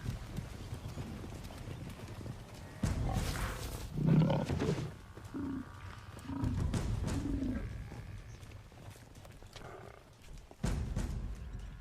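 Wild animal calls over a low rumbling: a loud growl about four seconds in, then three short grunts.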